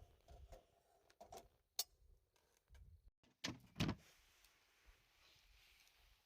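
Faint camp handling noises: a sharp click a little under two seconds in, then two louder knocks close together about three and a half seconds in, over quiet background hiss.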